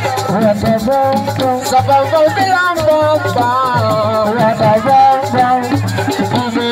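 Live assiko band music: a voice singing a bending melody over steady percussion with a high rattling shake and a sustained low bass line.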